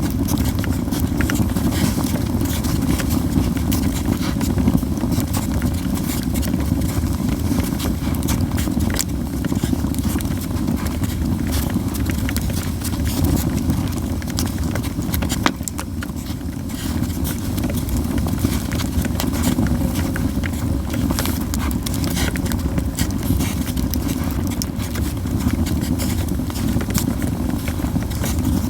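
Japanese yew firewood burning in an open campfire: a steady low rush of flames with frequent sharp crackles and pops scattered throughout.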